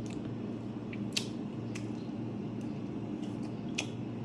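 Someone eating a pan-seared steak: a handful of sharp clicks, irregularly spaced, over a steady low hum.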